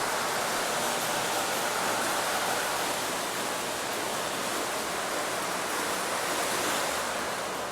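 Water from a small layout fountain splashing steadily, an even, continuous rush.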